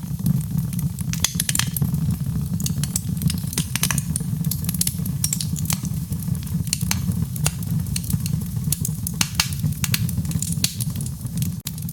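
Wood fire burning with a steady low rumble under frequent sharp crackles and pops.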